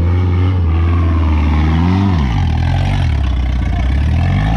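Off-road vehicle engine running and revving: the pitch climbs about two seconds in, drops back, then rises again near the end.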